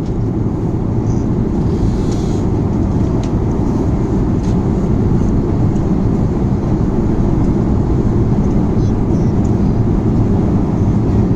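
Steady low roar inside an airliner cabin: jet engine and airflow noise.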